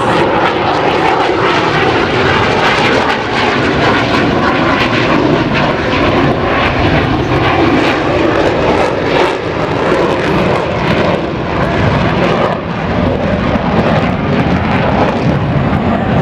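B-2 Spirit stealth bomber's four turbofan engines on a low, slow flyby: a loud, steady jet roar with a faint steady whine in it.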